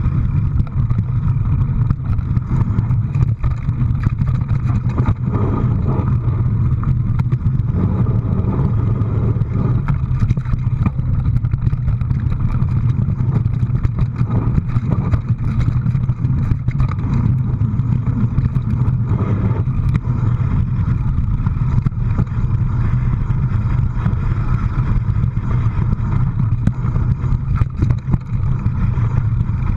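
A vehicle engine running steadily, a constant low drone with road or wind noise over it.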